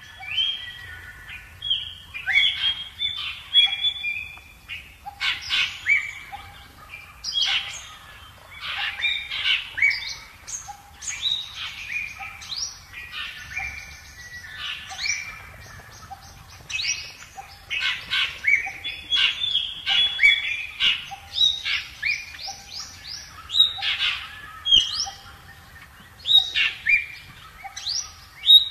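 Several wild birds chirping and calling over one another in quick, varied phrases, with a lower short note from another bird repeated about once a second.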